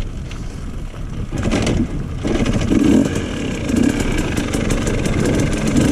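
Dirt bike engine running at low revs and picking up from about two seconds in, the throttle swelling and easing a few times, with rapid light clicking over it.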